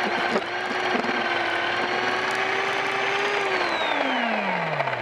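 Electric drive of a Vaterra Twin Hammers RC rock racer whining at a steady pitch under a noisy rush, with a couple of small knocks about a second in, then winding down in a falling whine over the last second and a half as it slows.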